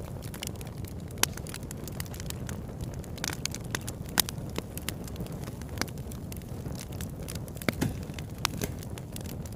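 Campfire burning: the steady low noise of the flames with frequent sharp crackles and pops of burning wood, a few louder snaps standing out.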